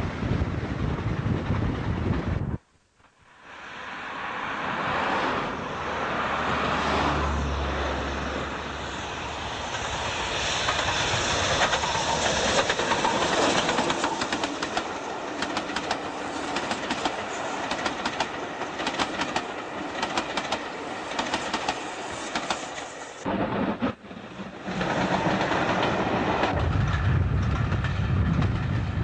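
Steam-hauled passenger train running past, its coaches clattering rapidly over the rail joints. The sound builds up after a sudden break a few seconds in and is cut off again near the end.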